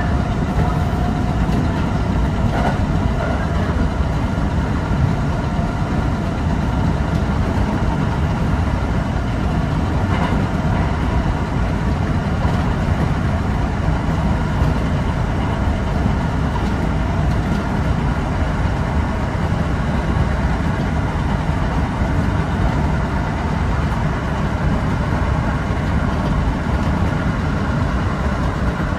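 Kintetsu 8000 series electric train running at speed, heard from on board: a steady rumble of wheels on rails with running noise that does not let up.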